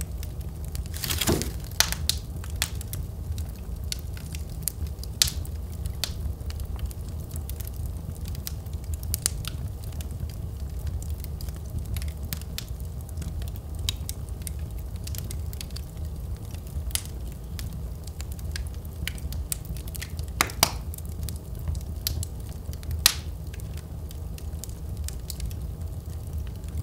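Wood fire burning in a fireplace, crackling with many small sharp pops over a steady low rumble of the flames. A few louder pops stand out, one about a second in and two more near the end.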